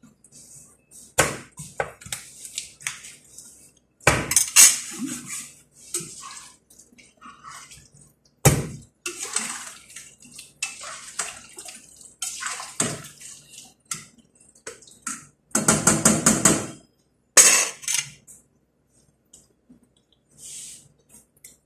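Kitchen cookware and utensils clattering: an irregular run of knocks, clinks and scrapes as pots, lids and utensils are handled and set down, with a longer dense clatter a little past the middle.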